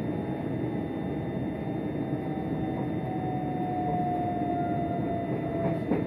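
Steady running rumble inside an electric train on the move, with a faint whine that falls slowly in pitch in the second half.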